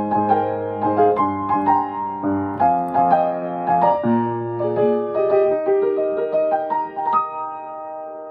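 Piano-voiced keyboard playing a by-ear transcription of one of the Hokuriku Shinkansen train melodies: a tune over chords, ending on a chord struck about seven seconds in and held as it fades.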